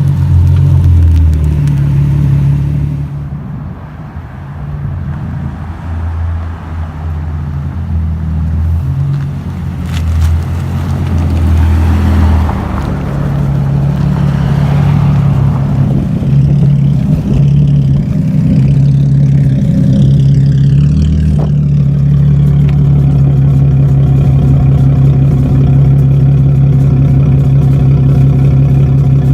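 Nissan 370Z's 3.7-litre V6 with a catless, fully straight-piped exhaust, heard while driving: a loud, low exhaust drone that shifts in pitch as engine speed changes. About three seconds in it eases off for several seconds, then later settles into a steady drone.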